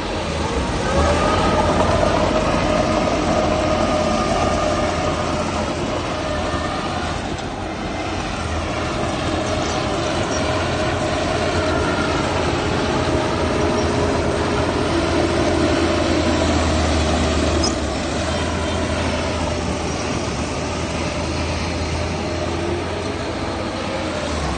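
Heavy diesel machinery running steadily under load, with a sustained whine that drifts slightly in pitch.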